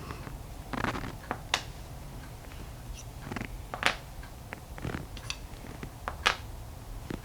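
Scrabble tiles being handled and set down: about a dozen light clicks and taps at irregular intervals, over a low steady hum.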